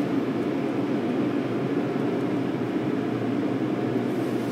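Automatic car wash equipment running, a steady even rush heard from inside the car.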